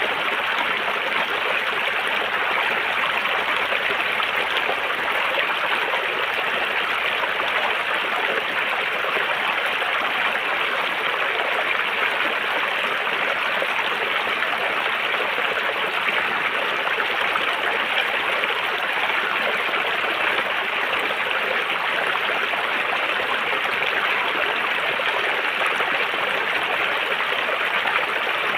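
River water running over rocks, a steady even rush with no breaks.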